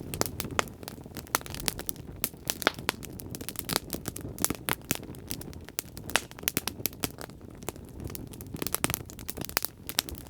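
Wood fire burning in a fireplace, crackling and popping: many sharp, irregular pops over a low, steady rumble of flame.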